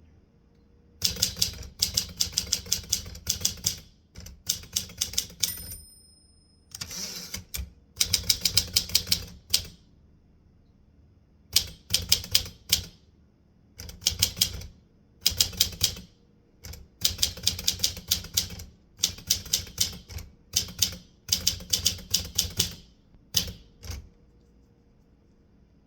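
Typewriter typing: bursts of rapid key strikes in word-length runs, with short pauses between them. There is a brief high ring about six seconds in.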